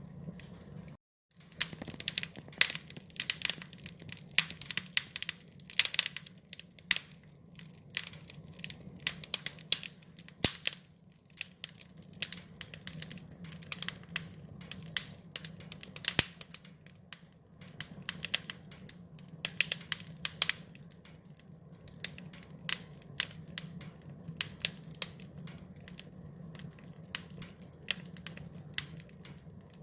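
Wood fire crackling, with irregular sharp pops and snaps over a low steady hum. The sound drops out briefly about a second in, and the crackles come more thinly in the last third.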